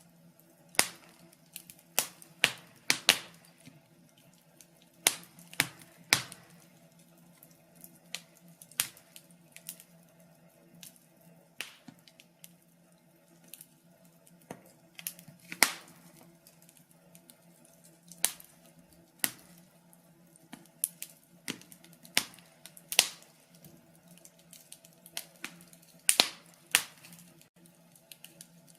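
Wood fire crackling: irregular sharp pops and snaps, a few every second or two, some much louder than others, over a faint steady low hum.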